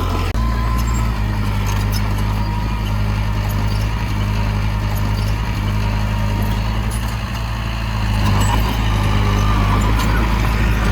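Heavy diesel engine of earthmoving machinery running with a steady low drone, growing louder from about eight seconds in.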